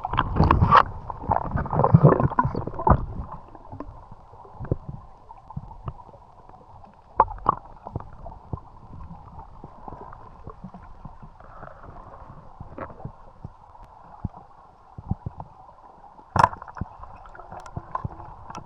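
Muffled water sounds heard with the microphone in or under the water: gurgling and sloshing, louder in the first few seconds, then a low wash with scattered clicks and knocks, the sharpest about seven and sixteen seconds in.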